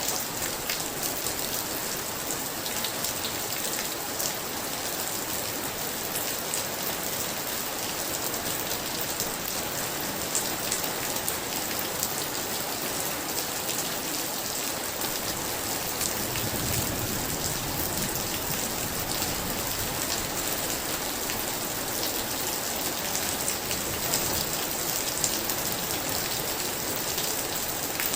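Heavy rain falling steadily, a dense hiss with many individual drop ticks. A soft low rumble swells briefly a little past halfway through.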